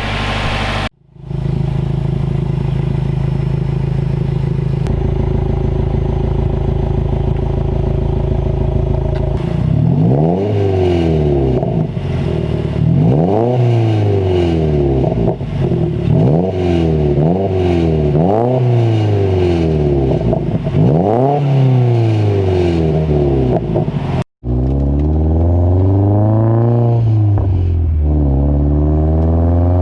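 Subaru WRX's turbocharged flat-four running through a new Agency Power catback exhaust. It runs steadily at first, then is revved again and again, its pitch rising and falling about every second and a half. Near the end it pulls in long rising sweeps, each dropping suddenly, like shifts while accelerating.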